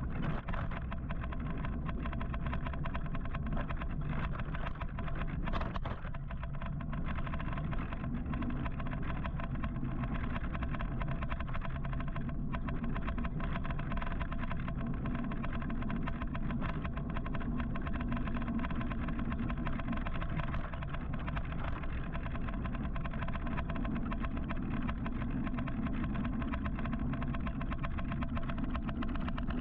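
Road and traffic noise heard while riding an electric motorcycle through busy city traffic: a steady low rumble with a faint steady hum.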